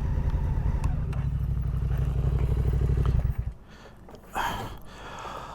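Adventure motorcycle engine idling with an even low pulse, then switched off and cutting out abruptly about three and a half seconds in.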